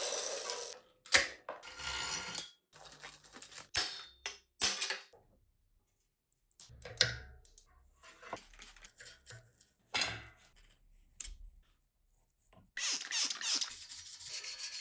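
A run of short, separate workshop noises while bicycle parts are handled and worked on: clicks, rubbing and scraping, and light metal clinks. Several stretches stop abruptly, as if cut together.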